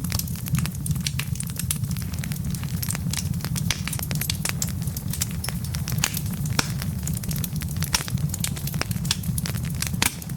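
Wood logs burning in a fireplace: irregular crackles and snaps over a steady low rumble, with a louder pop near the end.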